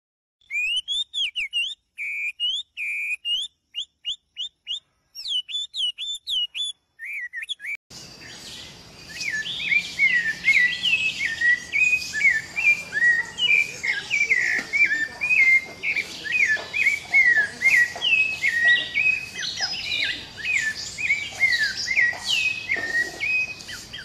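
Birds chirping: a string of short, sharp chirps with dead silence between them. From about eight seconds in comes a denser, louder stream of quick chirps over a steady outdoor hiss.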